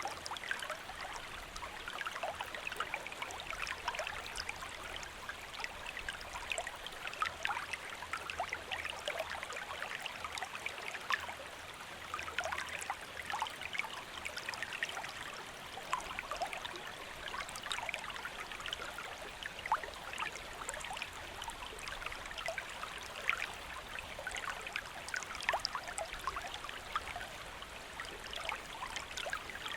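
A shallow stream flowing steadily, with water rushing and trickling and many small splashes.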